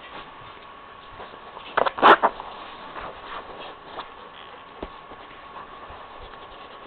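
Labrador puppies playing: light clicks and scuffling, with a short loud burst of scuffling about two seconds in.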